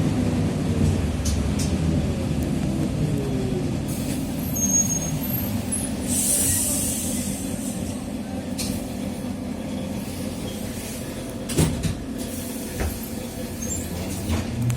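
Interior of a TrolZa-5275.05 'Optima' trolleybus slowing down: the drivetrain whine of its Ishimbay rear axle and traction motor falls in pitch over the first few seconds. About six seconds in there is a hiss of compressed air from the brakes, a sharp clack comes near the twelve-second mark, and a rising whine begins near the end as it pulls away again.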